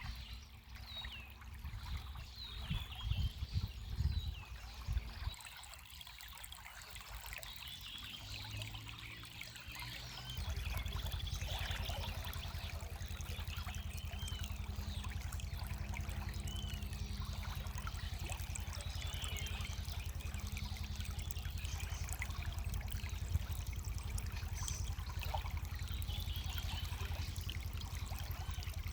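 Spring water trickling and pouring, with small birds chirping over it. About a third of the way in, the water becomes a louder, steady flow.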